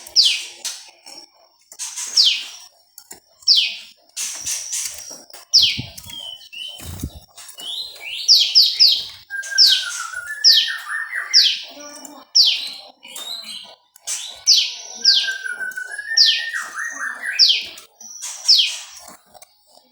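A prenjak lumut (prinia) singing: a string of sharp, high notes, each sliding quickly downward and repeated about once a second. Twice the notes are mixed with lower, wavering twittering phrases, and a couple of low thuds come about six to seven seconds in.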